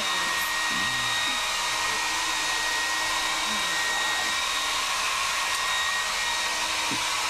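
Blow dryer running steadily: a rush of air with a steady high whine over it.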